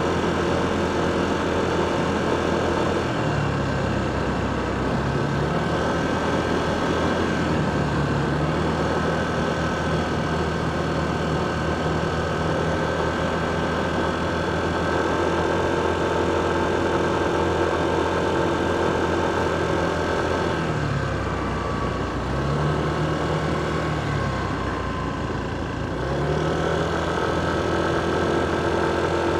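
Motorcycle engine running in city traffic, its low note dropping and rising again several times as it slows and picks up speed, over a steady hum of surrounding traffic.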